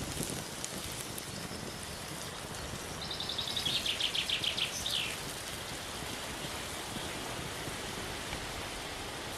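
Steady hiss of rain falling outdoors. About three seconds in, a songbird sings one song: a quick run of repeated high notes stepping down in pitch and ending in a short flourish.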